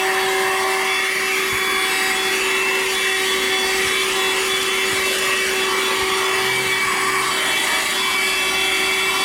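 Audew 12V DC handheld car vacuum cleaner running continuously, a steady motor hum over a rushing hiss of air.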